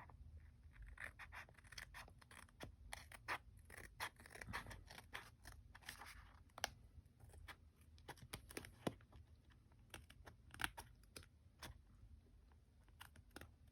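Faint handling and trimming of paper: an uneven scatter of short snips, clicks and scratchy rustles.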